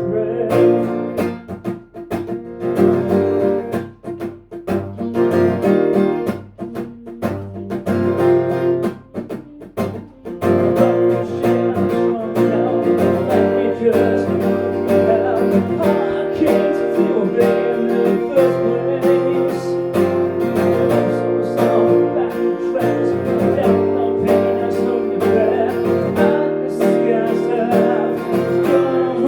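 Acoustic guitar played live: single picked notes with short gaps for the first ten seconds or so, then fuller, continuous strumming.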